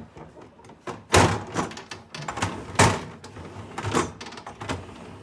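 A panel being fitted into a refrigerator's freezer compartment, knocking and clattering in place: several sharp knocks, the loudest about a second and about three seconds in.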